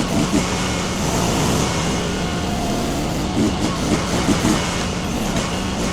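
Mini skid steer's engine running with a steady drone.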